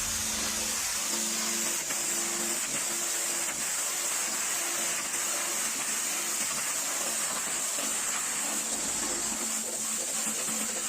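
Pressure washer spraying a continuous jet of water: a steady hiss with a faint hum underneath.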